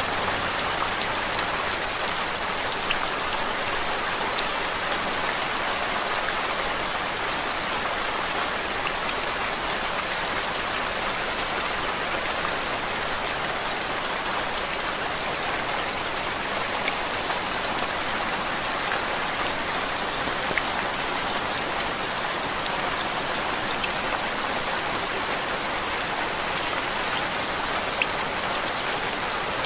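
Steady rain falling: an even hiss with scattered small drop taps.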